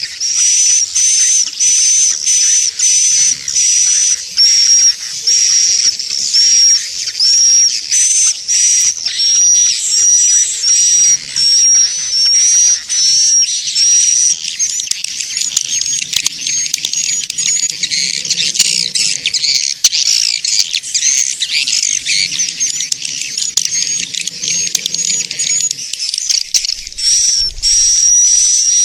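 Swiftlet lure call: a recording of edible-nest swiftlet chirps played to draw swiftlets into a bird house. Short, high chirps repeat about twice a second, turning into a denser, overlapping twitter about halfway through, with the regular chirps back near the end.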